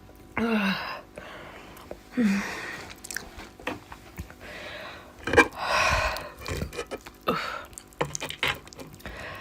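Close-up eating sounds of a person chewing a mouthful of rice and fish curry: wet smacking and small clicks, with a few loud breathy exhales, two of them ending in a short falling voiced sound.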